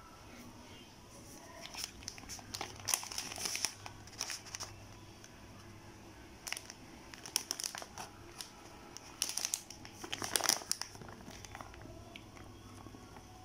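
Plastic food packaging crinkling as it is handled and opened, in three bursts of crackling.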